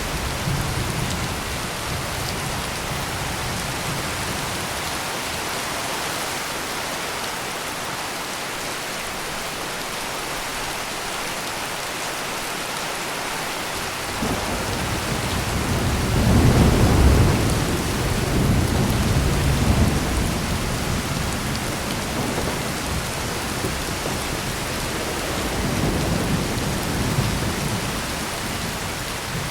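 Heavy steady rain with rolling thunder. A low rumble builds at about the middle, peaks for a few seconds, fades, and comes back weaker near the end.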